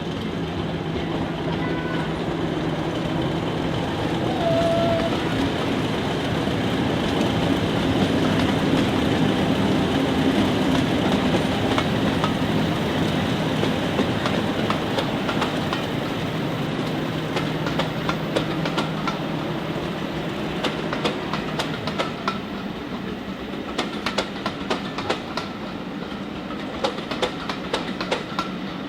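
Train running on rails: a steady rumble that swells and eases, with rail-joint clicks becoming frequent in the last third.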